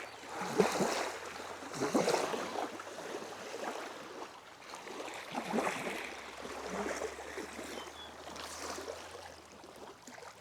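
Small waves lapping at a gently sloping shore in gusty wind, swelling and easing irregularly every couple of seconds.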